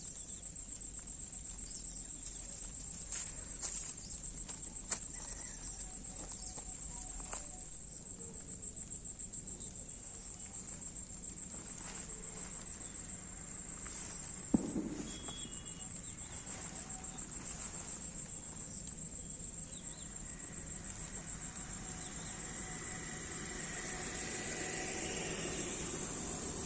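Insects keep up a steady, high-pitched trill, with a few faint clicks early on and one sharp knock about halfway through.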